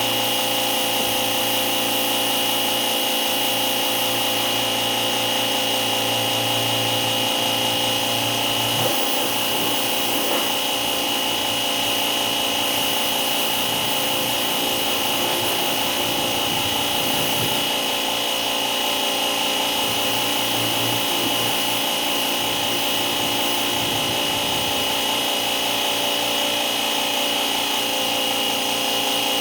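A power tool's electric motor running steadily with a high whine, some tool noise mixed in.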